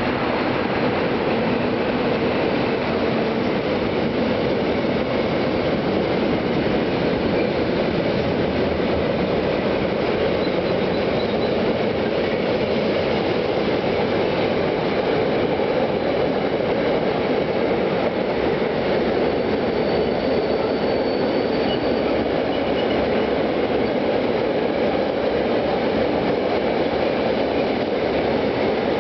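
Long freight train of two-axle wagons rolling past, a steady rumble and clatter of wheels on rail, with a faint high wheel squeal briefly about twenty seconds in.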